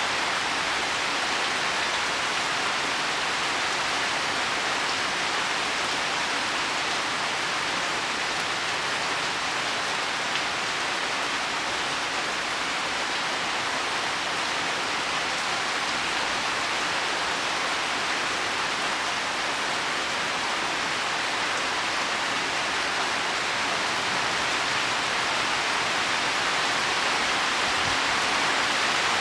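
Heavy rain falling steadily on leaves and soil, a continuous even hiss.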